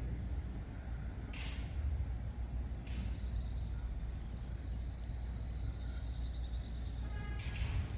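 Small birds chirping outdoors: three short high chirps about one and a half, three and seven and a half seconds in, with a faint thin high call wavering between them, over a steady low rumble.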